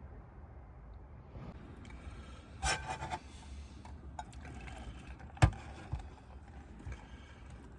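Things being handled: a scrape with a short clattering ring about two and a half seconds in, then one sharp knock about five and a half seconds in, with a few lighter clicks, over a steady low rumble.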